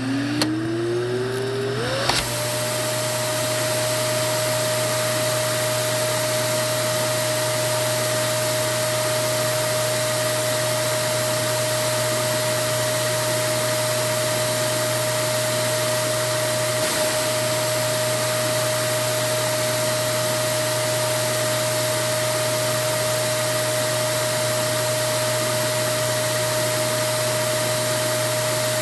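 Vacuum cleaner motor spinning up, its whine rising in pitch over the first two seconds, then running steadily with a constant rush of airflow.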